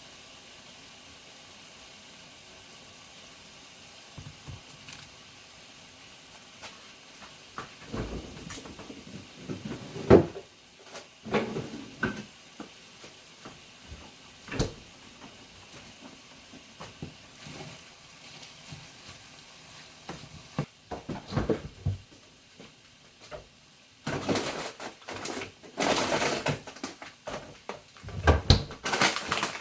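Scattered knocks, clicks and clatter of objects being handled in a small room, over a faint steady hiss. The handling grows busier and denser in the last few seconds.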